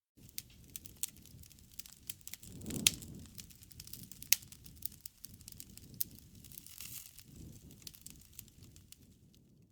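Campfire burning: wood crackling with irregular sharp pops over a low rumble of flame, the loudest pops about three and four seconds in.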